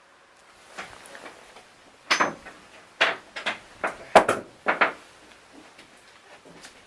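A string of sharp knocks and clunks, irregular and close together, between about two and five seconds in, with lighter taps before and after.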